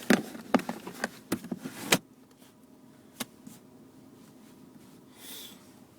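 A quick run of plastic clicks and knocks as a car's center console lid and its contents are handled, ending in a sharp knock about two seconds in, like the lid shutting. One more click comes about a second later.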